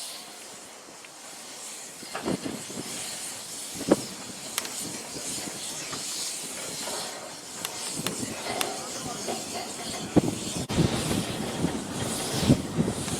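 Steam locomotive of the 15-inch-gauge Romney, Hythe and Dymchurch Railway hissing steam at the station, growing louder and more uneven from about ten seconds in.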